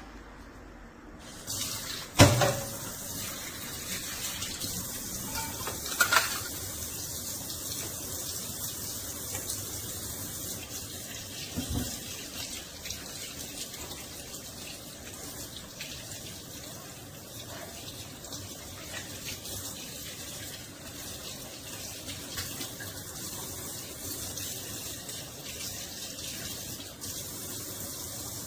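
Steady running-water hiss, like a tap running into a sink, starting about a second and a half in. Sharp knocks come about two seconds in and about six seconds in, with a softer one near twelve seconds.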